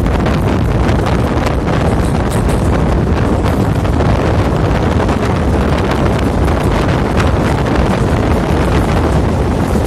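Steady loud rumble of a moving train heard from on board, with wind buffeting the microphone.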